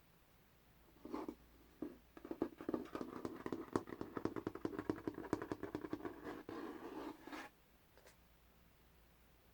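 Masking tape being peeled off, a sticky crackling with many fast clicks: two short pulls about a second in, then one long peel of about five seconds that stops suddenly, and a faint tick after it.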